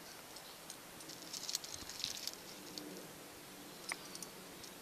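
Soft crunching and crackling of footsteps in snow, busiest between about one and two and a half seconds in, with a brief high squeak near the end.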